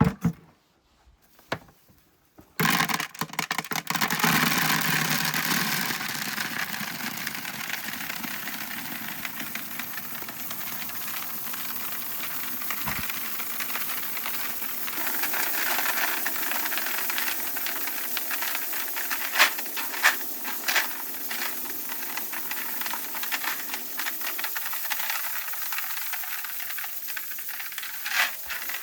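A steady hissing noise that starts about two and a half seconds in, with a few sharp clicks in the second half.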